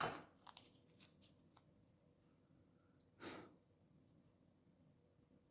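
Near silence: room tone, with a few faint small clicks in the first second or so and one short, soft rush of noise about three seconds in.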